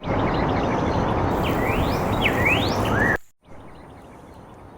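Loud steady rushing noise with a bird calling over it in quick rising whistles; about three seconds in the noise cuts off suddenly, leaving quiet outdoor background where the bird's rising calls go on.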